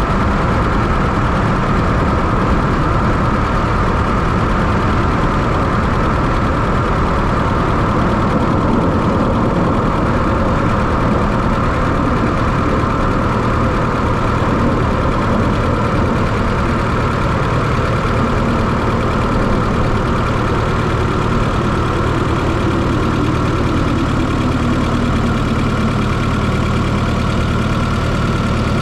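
1995 Fiat Coupé 2.0 16V turbocharged four-cylinder engine running steadily, heard close up from inside the engine bay. Over the last third a faint tone slowly falls in pitch.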